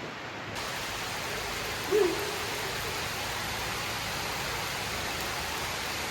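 Steady hiss of rain falling. About two seconds in, a brief low-pitched sound stands out above it.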